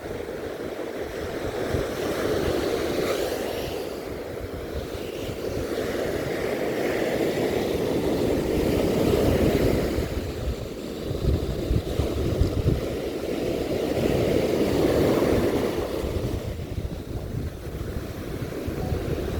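Sea waves breaking and washing up on a beach, the surf swelling and ebbing every several seconds, with wind buffeting the microphone, strongest about eleven seconds in.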